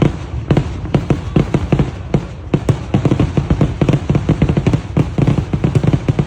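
Fireworks going off in a loud, dense barrage: several sharp bangs and cracks a second overlapping one another, packing even closer about halfway through.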